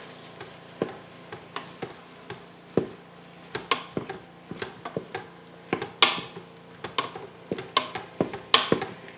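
A utensil stirring food in a pressure cooker's inner pot, with irregular knocks and clicks against the pot, the two loudest about six and eight and a half seconds in.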